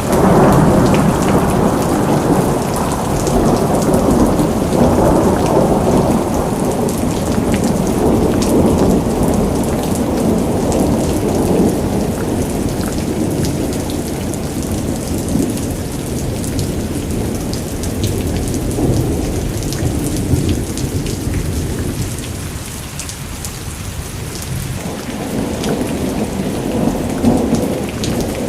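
Thunderstorm: steady rain falling, with long rolling rumbles of thunder. The rumble eases about three-quarters of the way through and builds again near the end.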